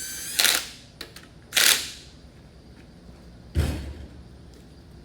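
Power drill-driver running the connecting-rod cap nuts down. It starts with a short whine that rises as the motor spins up, then comes two sharp, noisy bursts, and a dull thump about three and a half seconds in.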